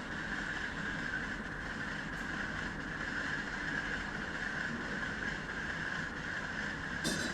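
Train running at speed: a steady rushing, rolling noise that holds level throughout, with a brief sharp click near the end.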